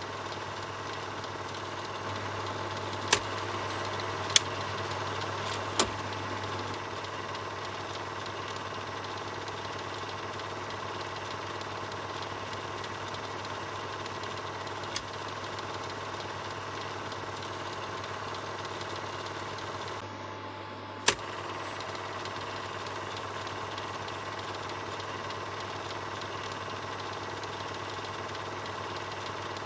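Film projector running steadily, a continuous mechanical whir over a low motor hum, with a few sharp clicks scattered through it.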